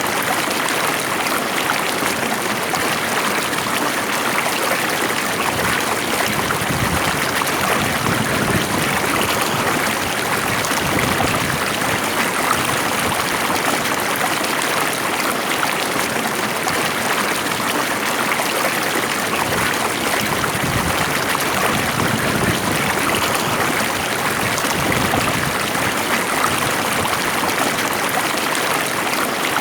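Water flowing steadily in a stream, a calm, even rush with a little trickling.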